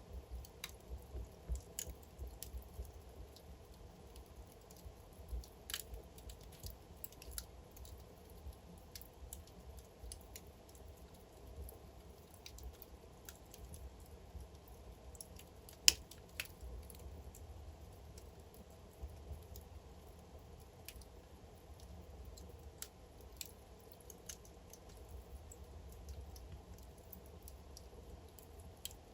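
Wood fire in a fireplace crackling: irregular small pops and snaps over a low steady rumble, with one sharp, much louder pop about halfway through.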